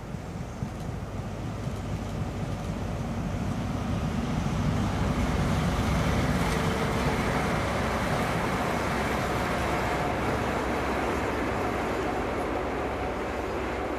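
Rumble of an approaching Class 43 HST mixed with road traffic noise, swelling over the first few seconds and then holding steady.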